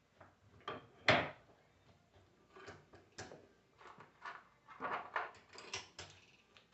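Irregular knocks and clicks of metal alternator parts and hand tools being handled on a workbench during reassembly of a 24-volt alternator, the loudest knock about a second in and a quick cluster of them near the end.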